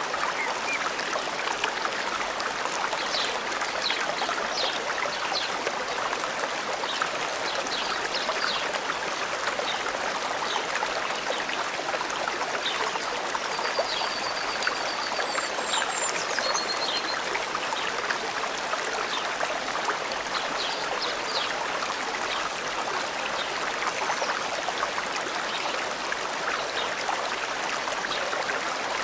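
A stream flowing steadily, with small birds chirping now and then above it and a quick trilling call about halfway through.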